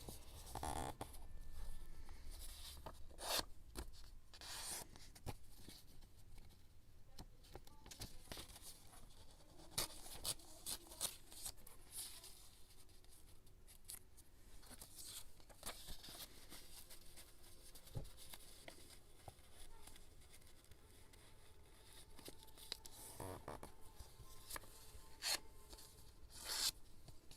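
Scrapbooking paper being handled close to the microphone: irregular short, crisp rustles, tears and clicks, some louder than others.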